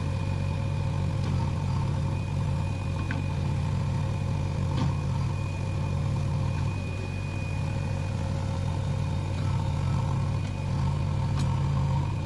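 Backhoe loader's diesel engine idling steadily at an even pitch.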